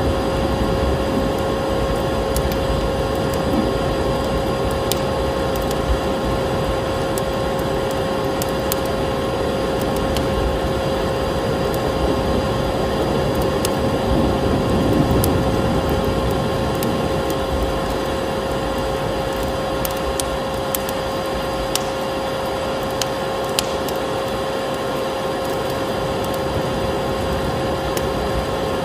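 A vacuum cleaner running steadily with a constant hum, layered over a wood fire crackling with scattered sharp pops.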